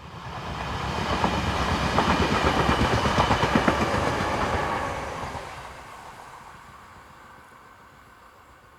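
A local passenger train passing close by on single track, its wheels clicking over the rail joints: the sound swells, is loudest for a few seconds, then fades away as the train recedes.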